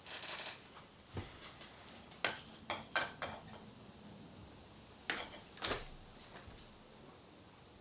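A series of light clicks and clinks, scattered irregularly, with a short rustle at the start.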